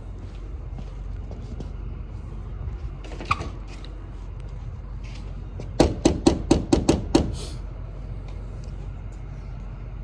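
Box truck engine idling with a steady low rumble. A little past halfway comes a rapid run of about seven sharp knocks, and there is a brief squeak a few seconds earlier.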